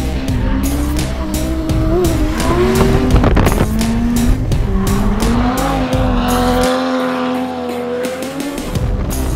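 Lexus IS300 drift car's engine revving up and down while its tyres squeal in a slide, with music and a steady beat over it; the deep bass drops out briefly near the end.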